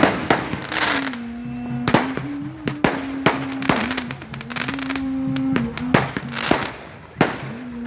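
Fireworks going off in an irregular rapid string of sharp bangs, some with a crackling tail. Music with a held, stepping melody line plays underneath.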